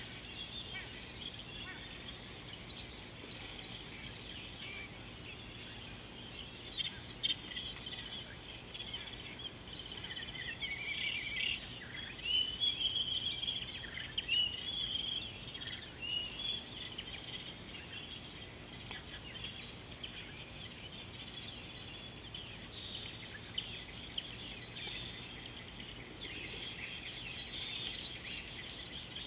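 Wild birds calling and chirping together, busiest in the middle. In the last third a bird gives a run of short high whistles, each one falling in pitch.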